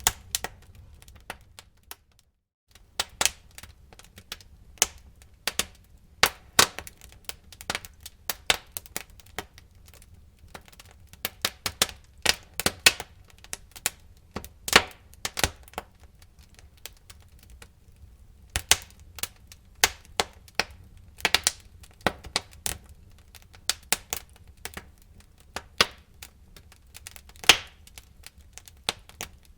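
Wood fire burning in a fireplace: irregular sharp crackles and pops of burning logs over a low, steady rumble of the flames. The sound cuts out completely for a moment about two seconds in, then the crackling resumes.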